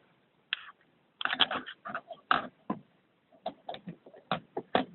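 LEGO Bionicle plastic parts clicking and knocking as they are handled and pulled apart and fitted, in a dozen or so short, irregular clicks.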